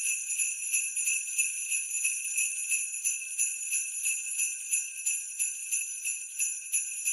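Sleigh bells shaken in a steady rhythm, about three shakes a second, ringing bright and high.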